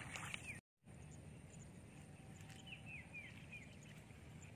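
Quiet open-field ambience with a small bird giving about four quick, downward-sliding chirps in a row about halfway through. At the very start, a few splashy footsteps in shallow muddy water, then a moment of silence.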